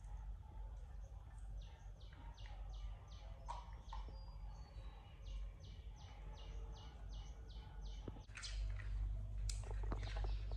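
A bird chirping in a fast, even series of short high notes, about three a second, over a low steady hum. Two sharp knocks come near the end.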